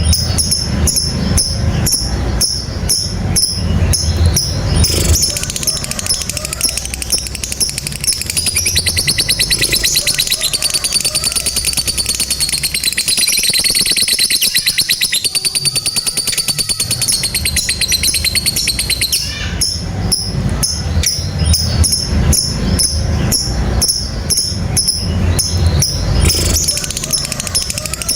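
Lovebird calling: rapid shrill chips repeating several times a second, breaking into one long unbroken trill ('ngekek panjang') from about 9 to 19 seconds in, then back to rapid chips.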